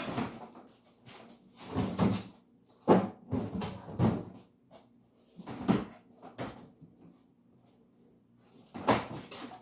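A series of short knocks and bumps from kitchen work, like a cupboard or fridge door and containers being handled, about seven in all with a quiet gap shortly before the last one.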